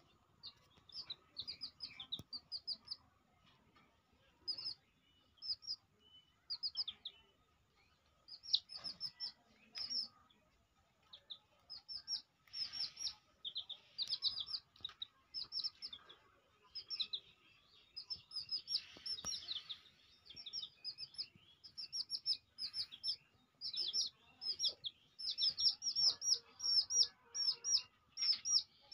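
Small birds chirping: short, high chirps that fall in pitch, in quick runs of two to five, coming more often toward the end.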